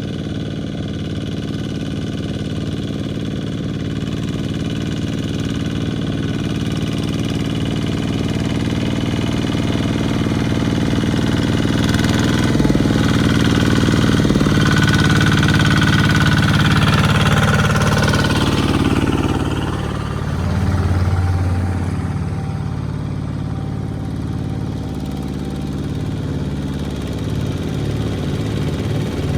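Small farm tractor's engine running steadily, its pitch shifting a few times and growing louder toward the middle, then dropping back with a brief swell a few seconds later.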